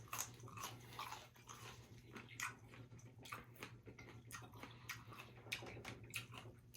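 Close-up chewing of crispy fried food: faint, irregular crunches and wet mouth clicks.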